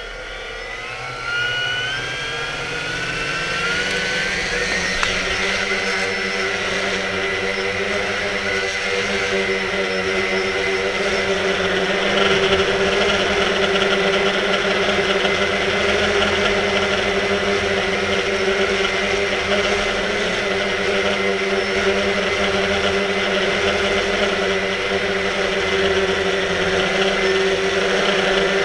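Quanum Nova quadcopter's brushless motors and propellers spinning up with a rising whine over the first few seconds, then running at a steady pitch.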